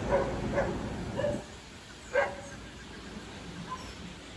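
Short animal calls, about four of them, the loudest a little over two seconds in.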